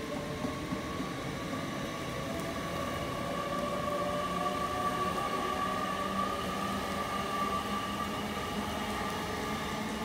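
Great Western Railway Hitachi IET train (Class 800/802) running along the line past the platform, with a steady whine that swells in the middle and eases off near the end.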